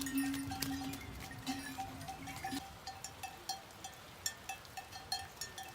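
Bells on a flock of sheep and goats clinking irregularly, with many short ticks and knocks. A long, steady low tone sounds through the first half and stops about two and a half seconds in.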